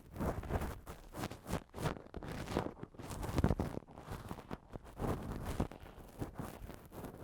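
An ear-cleaning tool scratching and rubbing in a microphone's ear canal: irregular, closely spaced strokes with soft thumps.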